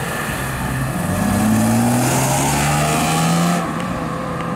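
BMW M3 E36's straight-six engine accelerating as the car pulls away past the camera, the revs rising for about two and a half seconds, then falling away as the driver shifts or lifts off.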